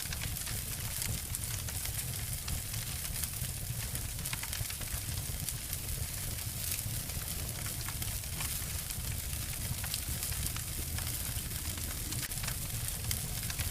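Two wood fires layered together, crackling and snapping with many small, irregular pops over a steady low rumble.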